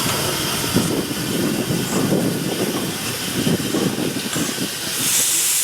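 Steam locomotive hissing steadily as it stands in steam, with a louder gush of steam near the end.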